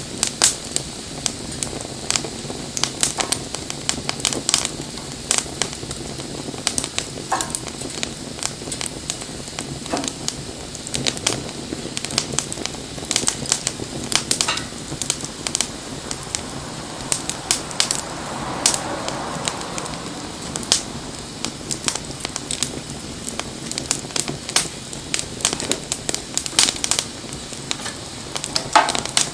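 Wood fire crackling and popping, with sharp snaps at irregular intervals over a steady soft hiss and a few brief whistles.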